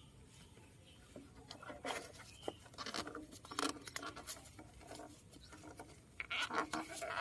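Irregular light clicks, taps and scrapes, with a few short louder rustling bursts about two seconds in and again near the end.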